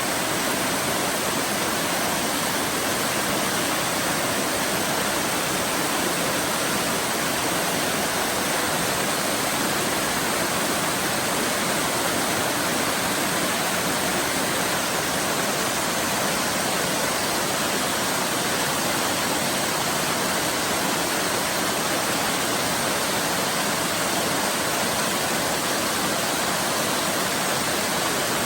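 Waterfall rushing steadily, a dense even roar of falling water with no breaks or changes.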